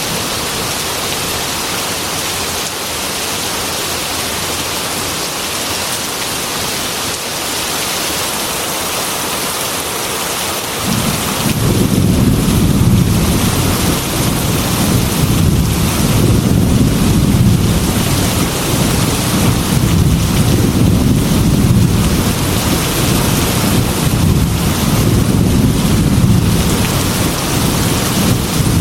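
Heavy rain pattering steadily against a glass window. About eleven seconds in, a long, deep rolling thunder rumble comes in and keeps swelling and ebbing over the rain.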